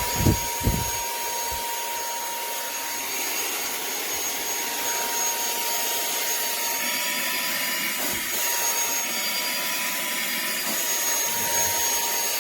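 SERVOMASTER cordless handheld car vacuum running at full speed: a steady high motor whine over the rush of air. There are two low bumps in the first second. It is sucking well.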